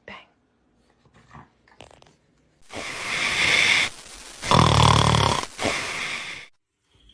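A dog snoring loudly: a long rasping breath starting about two and a half seconds in, then a deeper, pitched snore, ending abruptly near the end.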